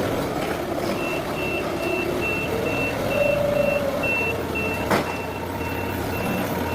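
Forklift reversing alarm beeping steadily, a little over two high beeps a second, over a rumbling engine-like noise. A single sharp click comes about five seconds in.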